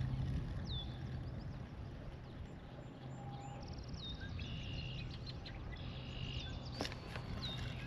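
Several birds calling: short falling whistles and quick chirps repeat again and again over a low, steady background hum. A single sharp click comes near the end.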